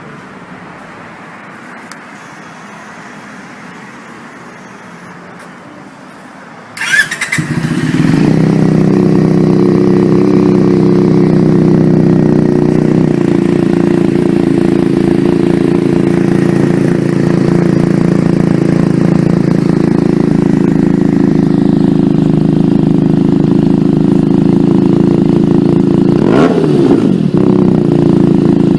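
Benelli TNT300 parallel-twin engine with an aftermarket exhaust starting about seven seconds in, then idling steadily and loudly. It is revved briefly once near the end.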